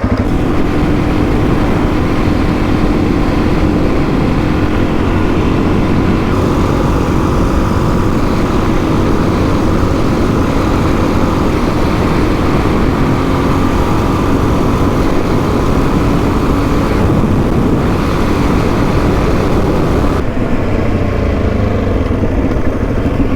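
Suzuki DR-Z400E single-cylinder dirt bike engine running steadily at cruising speed, with a constant rush of wind noise over it.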